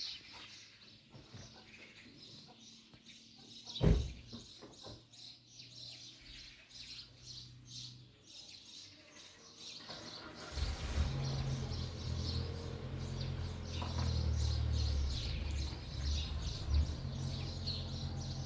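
Small birds chirping. There is a single sharp knock about four seconds in, and about halfway through a low steady rumble comes in and stays.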